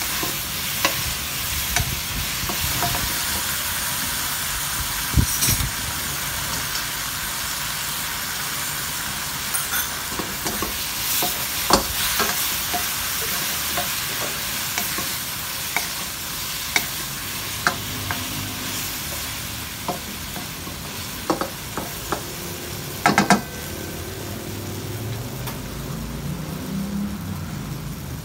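Garlic shrimp sizzling in hot oil in a nonstick wok while a wooden spatula stirs and scrapes them, with scattered clacks of the spatula against the pan and a quick run of sharper knocks about three-quarters of the way through.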